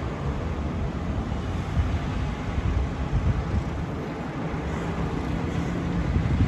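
Street traffic running past, with wind buffeting the microphone; a vehicle engine's steady hum stands out in the second half.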